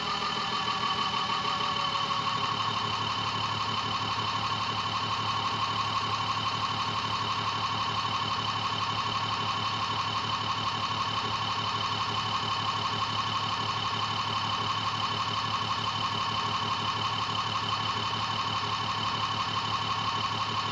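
A homemade battery-powered BLDC motor-generator rig running at low idle: a steady electric whine that eases slightly lower in the first second, over a low hum.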